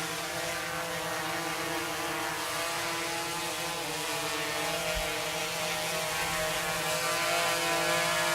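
Small multirotor drone's propellers buzzing as it hovers: a steady whine with a brief dip in pitch about four seconds in.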